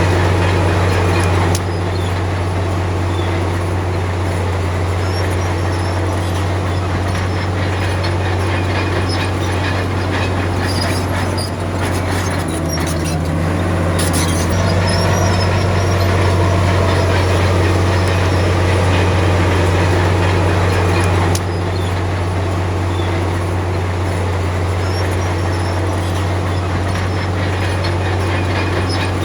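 Komatsu D53P crawler bulldozer's diesel engine running steadily with a low drone, mixed with the metallic squeal and clatter of its steel tracks.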